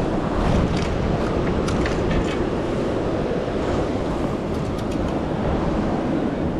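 Ocean surf washing against jetty rocks, mixed with wind buffeting the microphone, with a few faint light clicks.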